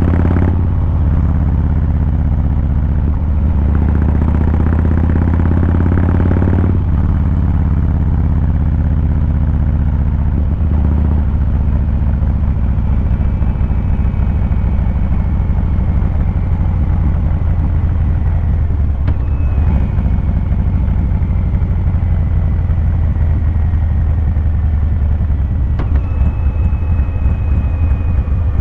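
Harley-Davidson Fat Boy 114's Milwaukee-Eight V-twin engine and exhaust under way, a deep steady rumble. It runs fuller for a few seconds early on, then settles to an even cruise.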